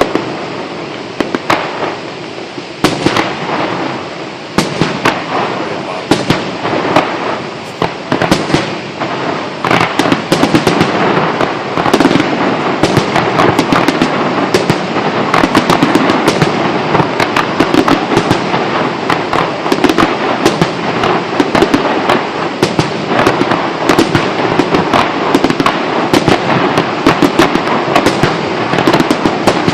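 Fireworks going off in rapid, overlapping bangs and crackles, growing denser about a third of the way in, with crowd voices beneath.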